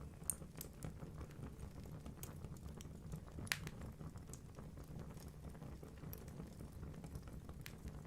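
Wood fire burning in a fireplace: a low steady rumble of flames with scattered sharp crackles and pops from the logs, the loudest about a third of a second in and again about three and a half seconds in.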